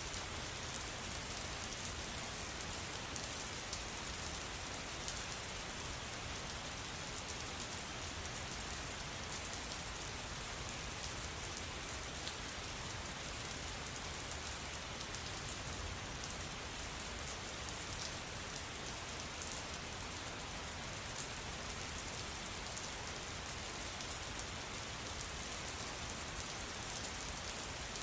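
Steady rain falling, with a dense patter of drops on a hard surface.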